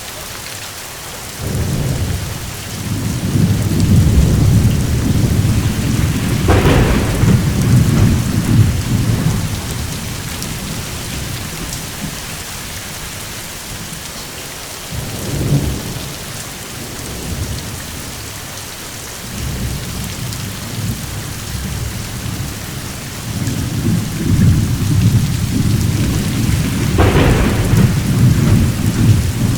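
Steady rain with rolling thunder. A long low rumble builds about two seconds in, with a sharper crack near the middle of it, a short rumble follows later, and another long roll with a crack rises toward the end.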